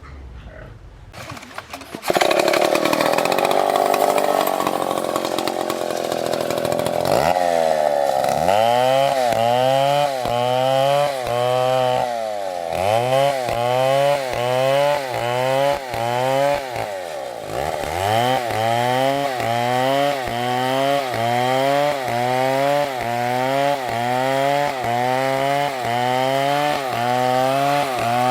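Two-stroke chainsaw cutting wood, coming in loud about two seconds in. From about seven seconds on, its engine note sags and recovers over and over, about one and a half times a second, as the chain bites under load.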